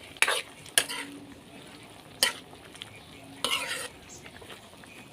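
A metal utensil stirring in a cooking pot of simmering adobong sitaw: a few sharp clinks against the pot, some leaving a brief ring, and a short scrape near the end, over a soft bubbling hiss from the boiling pot.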